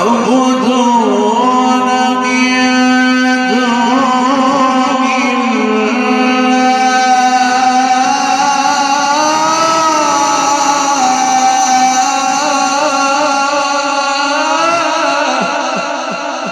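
A man's voice in melodic mujawwad Quran recitation, amplified, holding long ornamented notes that waver and glide in pitch. It eases off near the end.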